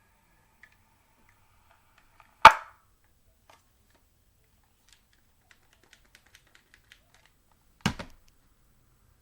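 Two sharp knocks, one about two and a half seconds in and one near eight seconds, with a run of faint quick clicks like keyboard typing between them.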